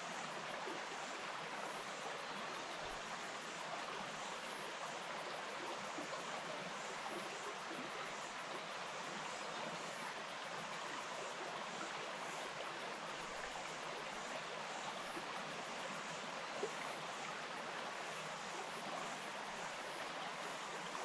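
Stream water flowing, a steady even rush of running water.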